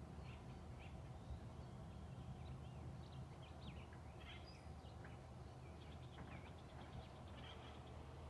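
Faint wild birds chirping in a forest, many short quick calls overlapping, over a low steady rumble.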